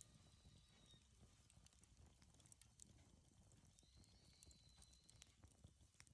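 Faint crackling of a wood bonfire: scattered sharp pops and snaps at an uneven pace, with a thin high whistle for about a second around the middle.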